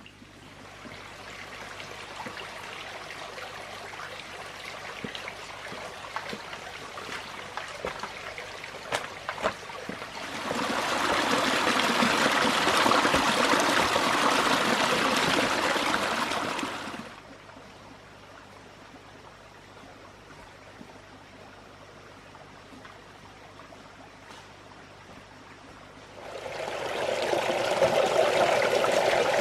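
Water trickling and pouring. A steady trickle with a few light knocks swells abruptly into a louder rush about ten seconds in, drops back to a quiet trickle after about six seconds, and surges loud again near the end.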